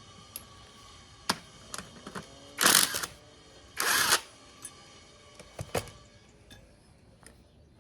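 Small metal engine parts and hand tools clinking and knocking while parts are stripped off the engine, with two short noisy bursts of about half a second each near the middle.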